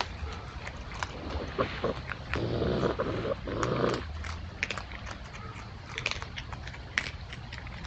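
An animal moving and making noise close to the microphone: many short clicks and knocks, with a harsher, denser stretch of sound lasting about a second and a half partway through.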